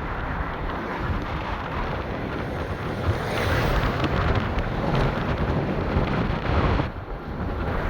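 Road noise and wind from a car being driven, a steady rumble with wind buffeting the microphone, swelling a little midway and easing briefly near the end.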